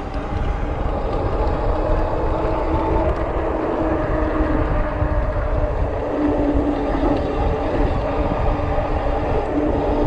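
Steady drone of a motor running while riding, its pitch shifting a little up and down, over a constant low rumble of wind on the microphone.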